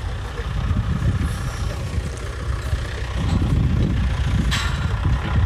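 A vehicle engine running at low speed, a low rumble that grows louder about three seconds in, with a brief scuff of noise near the end.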